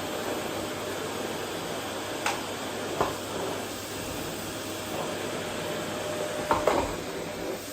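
Vacuum cleaner running steadily, a rushing hiss with a faint whine in it, as it is pushed over the floor. A few sharp knocks come about two seconds in, three seconds in, and in a quick cluster near the end.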